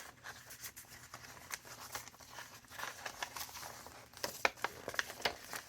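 Paper rustling and crinkling as the pages and tucked paper pieces of a thick handmade junk journal are handled and turned: a run of soft, irregular crackles that grow busier and louder near the end.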